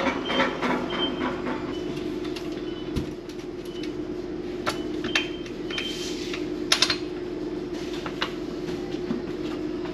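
Semi-truck diesel engine running steadily, with scattered sharp clicks and a few short high-pitched beeps.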